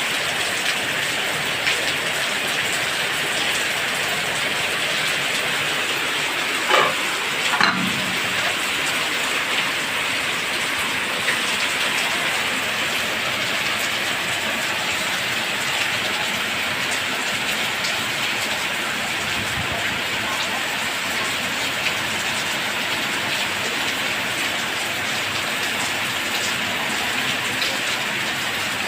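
Steady rain falling, an even hiss throughout, with two short louder sounds about seven seconds in.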